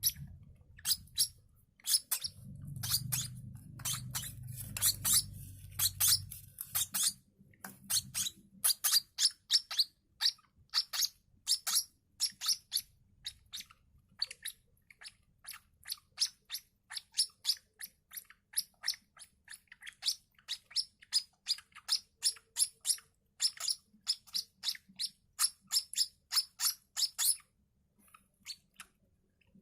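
Two young hand-fed lovebird chicks peeping in a long run of short, high chirps, two or three a second: the begging calls of chicks waiting to be fed. A low rumble lies under the chirps for the first several seconds.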